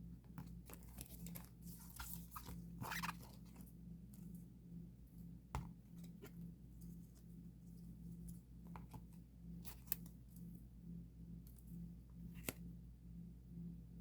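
Photocards and their plastic sleeves and packaging being handled: irregular rustling and crinkling with sharp little clicks and taps, busiest in the first few seconds, over a steady low hum.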